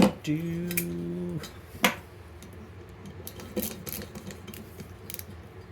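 A few sharp metallic clicks and clinks, the loudest about two seconds in: a screwdriver and the small aluminium parts of a wood stove fan being handled as the fan is taken apart.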